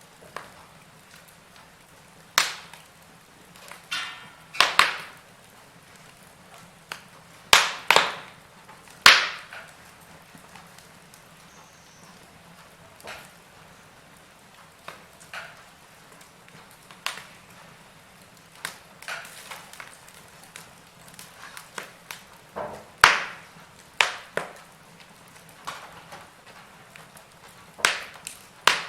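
Wood fire crackling in a fireplace: irregular sharp pops and snaps, some loud and some close together in pairs, over a faint steady hiss, with fewer pops in the middle stretch.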